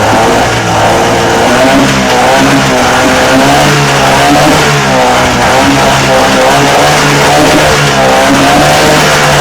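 Old Mariner 25 hp two-stroke outboard motor running, its engine speed rising and falling slightly every second or so instead of holding steady: not running perfect, but not bad.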